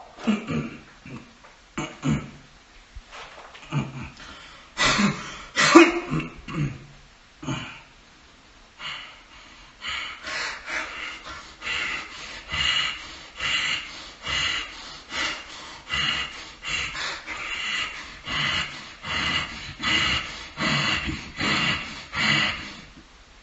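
A man singing a tuneless 'la la la' over and over, meant to grate on the ears. It starts with a few irregular louder cries and settles into a steady chant of about one 'la' every two-thirds of a second.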